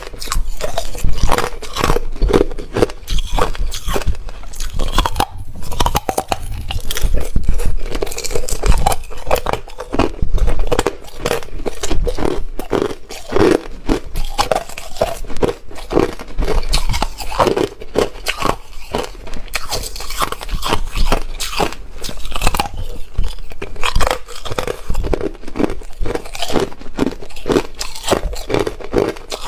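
Hard ice being bitten and chewed close to the microphone: a dense, continuous run of loud crunches and cracks.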